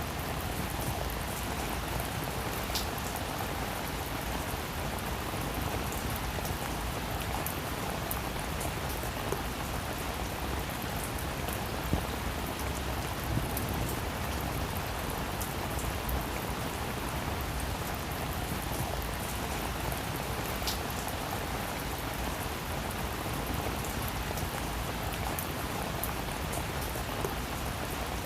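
Heavy rain falling steadily, a dense even hiss with scattered individual drop impacts.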